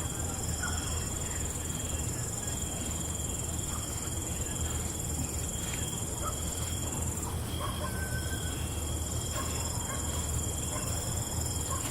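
Night insects, crickets, trilling in continuous high-pitched tones, with scattered short chirps and a low steady hum underneath.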